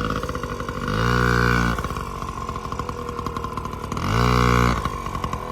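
Yamaha PW-50 dirt bike's small two-stroke single idling, blipped twice: rising briefly about a second in and again about four seconds in, then dropping back to idle.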